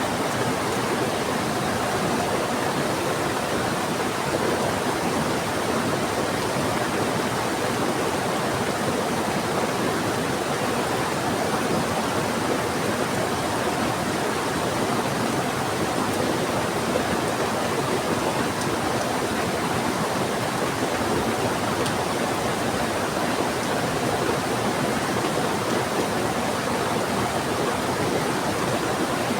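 Fast-flowing river water with heavy rain: a steady, even rush of water with no breaks.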